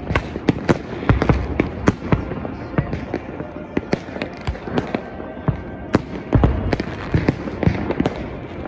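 Fireworks going off: aerial shells bursting in a rapid, irregular run of bangs, several each second.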